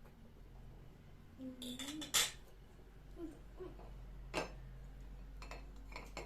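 Kitchenware being handled: a few sharp clinks and knocks, the loudest about two seconds in, with a short low squeak just before it.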